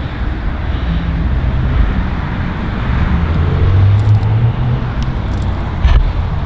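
Steady low vehicle rumble with a hum, rising a little in the middle.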